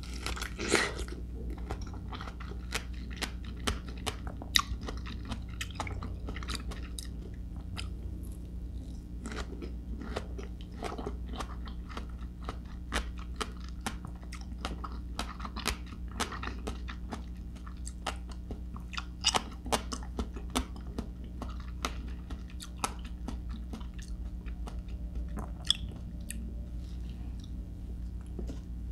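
Close-miked chewing of crisp persimmon: a loud crunchy bite about a second in, then steady chewing full of sharp crackles.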